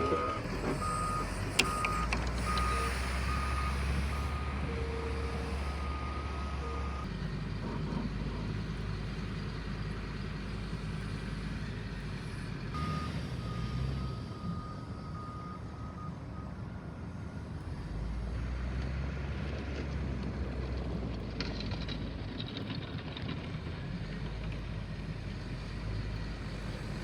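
A vehicle's reversing alarm beeping at a steady pitch about twice a second, over a heavy engine's low rumble. The beeping stops after about seven seconds and comes back for a few seconds around the middle.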